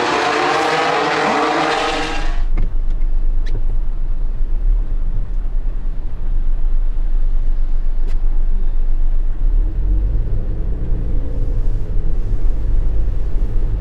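A loud dense wash of sound cuts off abruptly about two seconds in, giving way to the steady low road and engine rumble heard inside a moving Mitsubishi Delica Mini kei car, with a few faint clicks.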